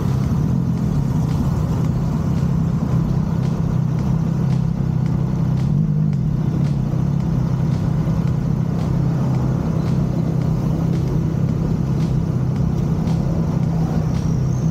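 Triumph Tiger Sport 660 inline-triple engine running at a steady cruising speed, a constant low drone with road and wind noise over it.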